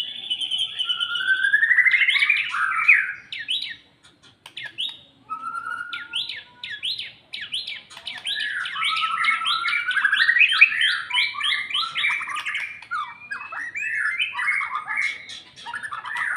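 White-rumped shama (murai batu) singing a long, varied song of rapid whistled and chattering phrases, with a short pause about four seconds in.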